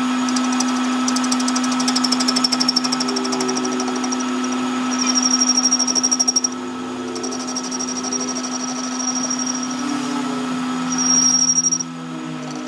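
A motor-driven machine running steadily with a constant hum, overlaid by stretches of rapid, even high-pitched ticking and a thin high whine that come and go.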